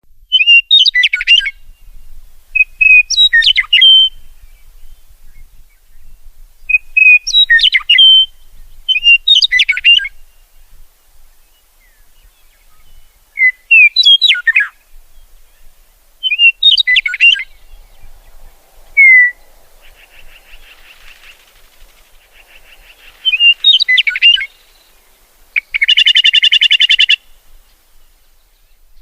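Songbird singing short, repeated chirping phrases every two to three seconds. A softer buzzing comes in after the middle, and a loud buzzy trill sounds near the end.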